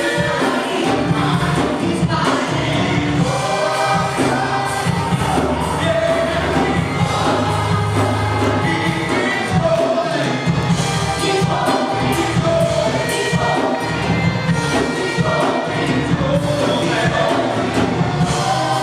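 Live gospel-style worship music: a group of voices singing a melody together over a band's steady bass accompaniment.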